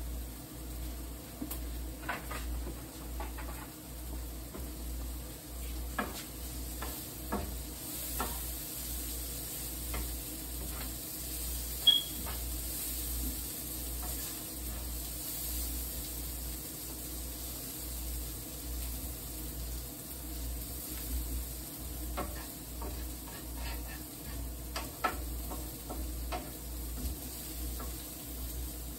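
Chicken and green peppers sizzling in an oiled griddle pan, steadily, while a wooden spatula stirs them and clicks and scrapes against the pan now and then. A sharp clack of utensil on pan about twelve seconds in.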